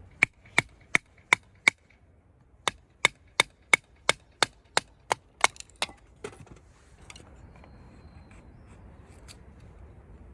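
Repeated sharp blows of a hand tool striking, about three a second, each with a short metallic ring. There are five blows, a brief pause, then a run of about ten more, trailing off into a few lighter knocks.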